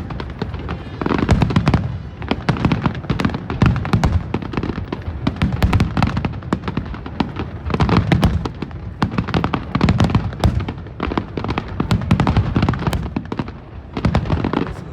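Fireworks finale: a rapid, continuous barrage of aerial shells bursting, dense crackling over deep booms about once a second, easing briefly near the end.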